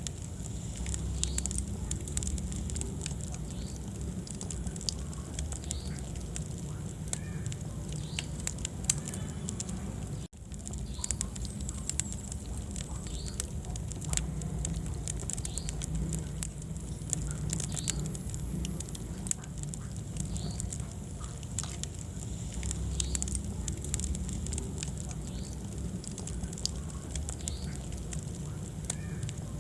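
Wood fire burning in a fireplace: many sharp crackles and pops over a low, steady rumble of the flames. The sound drops out for an instant about ten seconds in.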